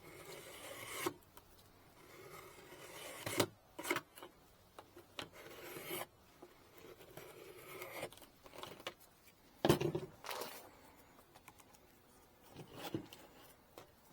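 Intermittent scraping and rubbing of wooden beehive frames being handled, with a few knocks, the clearest about three and a half seconds in and near ten seconds in.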